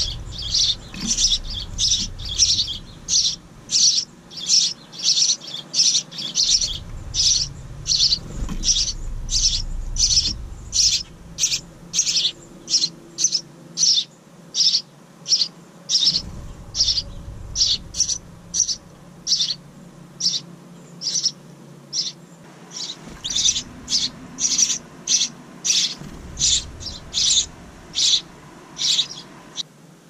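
A small songbird chirping over and over, short sharp high chirps at about two a second. A low rumble comes and goes underneath.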